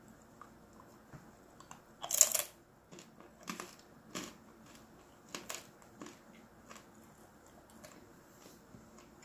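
Biting into and chewing a dried shiitake mushroom cap: one loud crunch about two seconds in, then a string of softer, irregular crunches that thin out.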